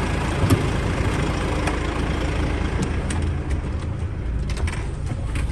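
DAF 105.460 tractor unit's PACCAR MX six-cylinder diesel idling steadily, with a few faint clicks in the second half.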